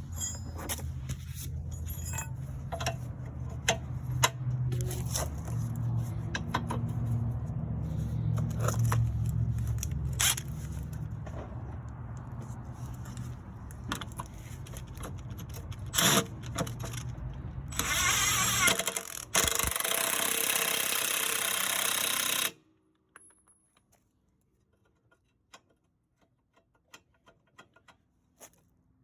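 An engine idling steadily, with scattered metallic clicks and knocks of tool work over it. About eighteen seconds in, a loud hiss runs for about four seconds and cuts off suddenly, leaving only faint ticks.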